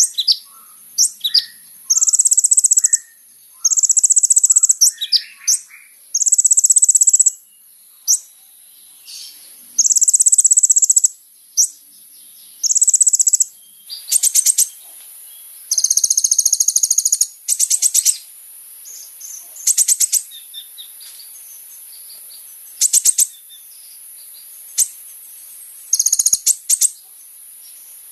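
Kolibri ninja sunbird singing: high, buzzy trills about a second long, repeated every couple of seconds and interspersed with sharp ticking calls and quick clicking runs.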